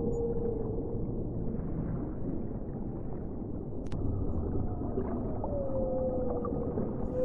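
Whale song over a steady low rumble of underwater noise. Long calls slide down in pitch and then hold a steady tone: one fades out about a second in, and another begins about four and a half seconds in and carries on to the end.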